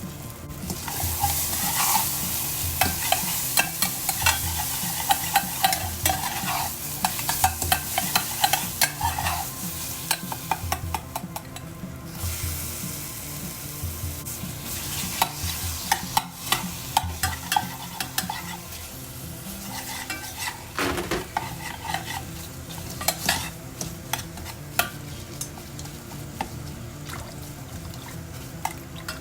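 Food frying in a pan while being stirred: a steady sizzle with the utensil repeatedly clicking and scraping against the pan. The sizzle is strongest for the first ten seconds or so, then eases, while the stirring clicks go on.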